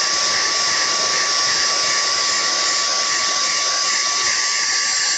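Vacuum cleaner running steadily, its motor giving a high whine over a loud rush of air.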